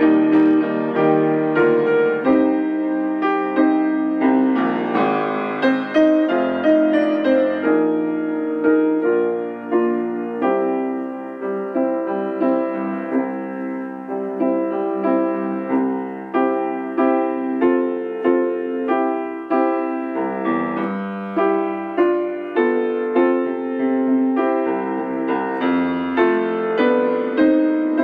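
Piano playing a choral anthem accompaniment, a steady run of chords and melody notes without voices.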